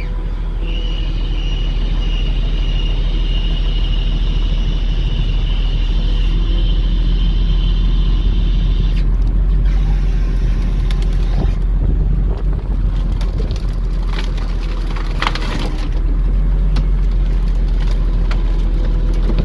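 Volvo grapple truck's diesel engine running steadily while its hydraulic grapple crane works. A high whine holds through the first half and cuts off suddenly, and a few sharp cracks and knocks come about three-quarters of the way through.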